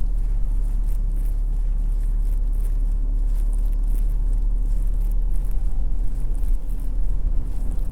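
Steady low outdoor city rumble of distant traffic and wind, with a faint steady hum throughout.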